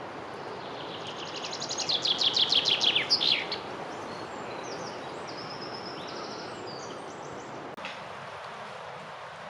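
A songbird sings a fast, loud run of repeated notes lasting about two and a half seconds and ending in a flourish. Softer, higher separate notes follow from another bird, over a steady background hiss of forest ambience.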